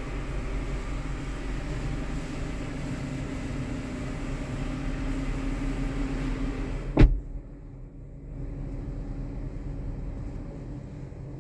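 A machine running steadily with a hum, cut off by a sharp click about seven seconds in; a quieter, duller hum carries on after.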